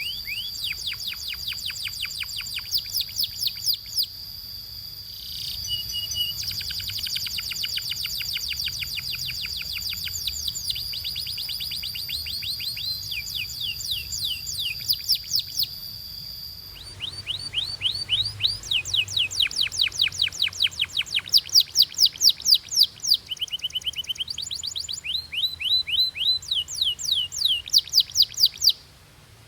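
Domestic canary singing: fast rolling trills of repeated down-slurred chirps, changing from phrase to phrase, over a steady high whistle in the first half.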